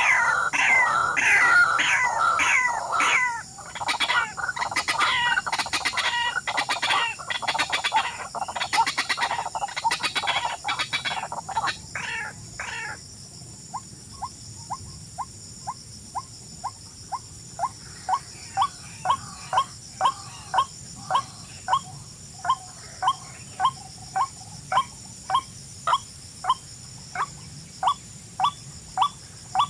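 Birds calling with repeated downward-sliding notes, thick and overlapping for the first dozen seconds over a steady high ringing. The calling then thins to one short note repeated evenly about twice a second.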